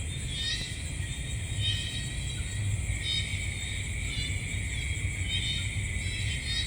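Night insect chorus, crickets trilling steadily at a high pitch, with short chirping calls repeating about once a second over a low rumble.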